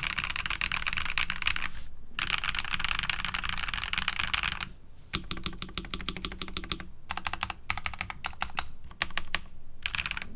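Typing on a Nuphy Halo65 65% mechanical keyboard with linear switches. It starts as fast continuous typing with a brief pause, then about five seconds in turns to slower, separate keystrokes with short gaps.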